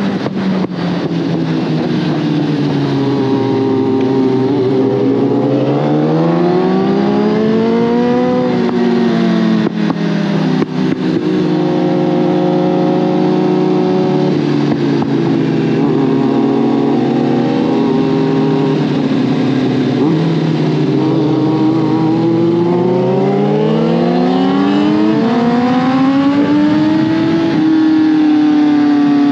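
Suzuki GSX-R1000R's inline-four engine under way. Its pitch holds, drops as the rider rolls off, then climbs as he accelerates, and does the same again in the second half, over a steady rush of noise.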